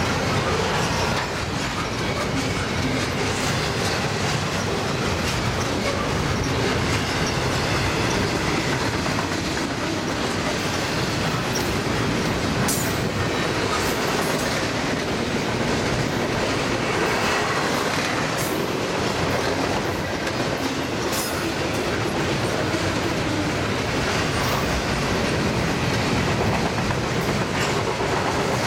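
Double-stack intermodal well cars of a freight train rolling past: a steady rumble and clatter of steel wheels on the rails, with a few brief high squeaks from the wheels.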